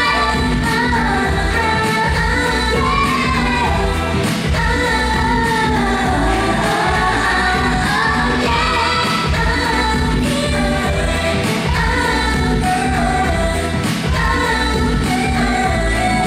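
K-pop dance song with sung vocals by a girl group over a heavy, steady bass beat.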